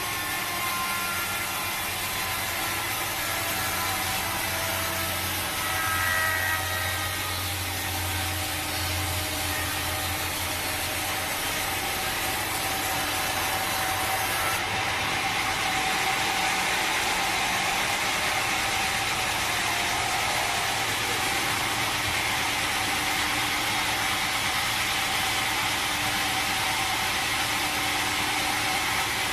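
Sawmill machinery running steadily, a continuous mechanical din with a low motor hum.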